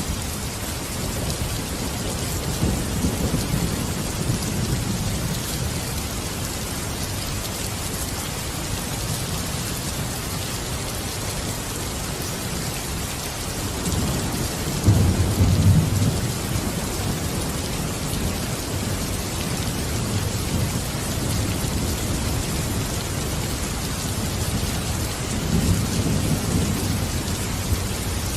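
Steady heavy rain hissing, with three low rumbles of thunder; the loudest comes about halfway through.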